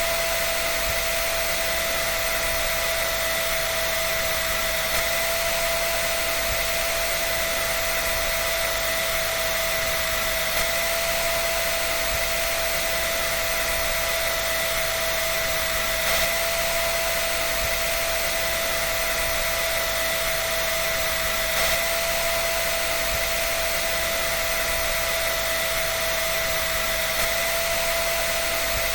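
Hair dryer running steadily: an even rush of blown air with a constant high whine from the motor and fan, unchanging throughout.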